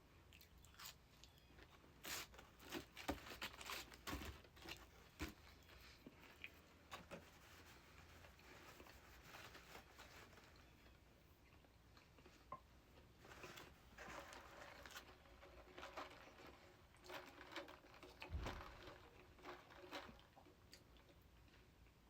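Faint, close-up chewing and crunching of food, in two spells of quick crackly clicks with quieter stretches between.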